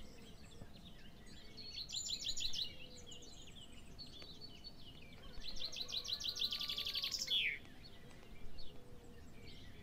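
Birds chirping in fast trills of high notes: one short burst early on, then a longer one about five and a half seconds in that ends in a falling note.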